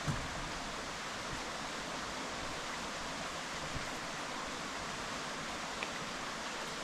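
Steady, even rushing noise, like running water, with a few faint light knocks.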